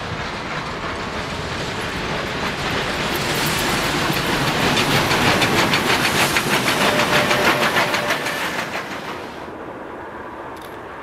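A steam train passing close by: a rapid, even run of beats, about five a second, swells to its loudest midway and falls away after about nine seconds.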